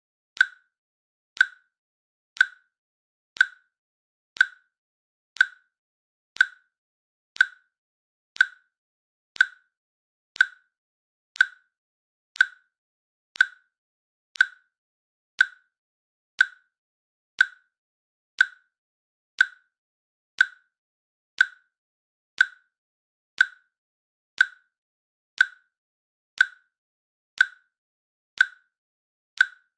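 Countdown timer's click sound effect, one short sharp click each second in a steady rhythm.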